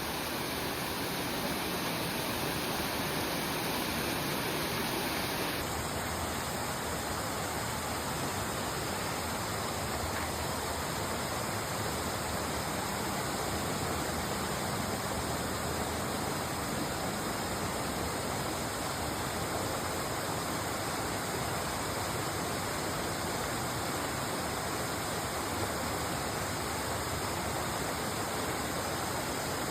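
Waterfall rushing: a steady, even wash of falling water, its tone shifting slightly about five seconds in.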